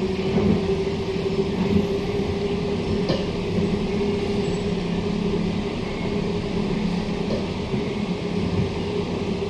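Queensland Rail SMU 260 series electric multiple unit heard from inside the carriage while running at speed: a steady rumble of wheels on track under a constant low hum, with a few faint knocks.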